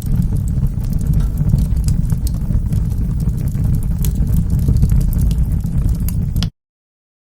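Wood fire burning in a fireplace: a steady low rumble with frequent sharp crackles and pops. About six and a half seconds in, the sound cuts out suddenly to total silence.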